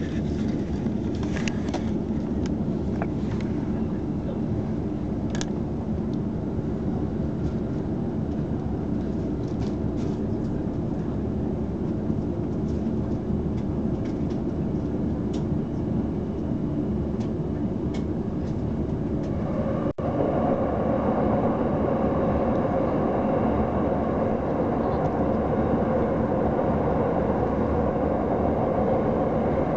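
Electric passenger train running, heard from inside the carriage: a steady rumble of wheels on rails with scattered sharp clicks. About 20 seconds in, after a brief break, the noise turns louder and boomier as the train runs into a tunnel.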